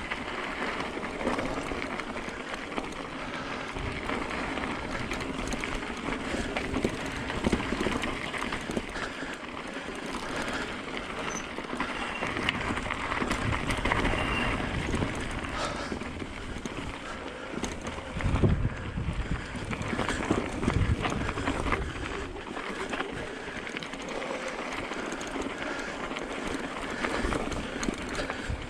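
Hyper 29er e-bike rolling downhill over a rocky trail: a steady rush of tyre and wind noise with constant small rattles and knocks from the bike, and one heavier thump about two-thirds of the way through.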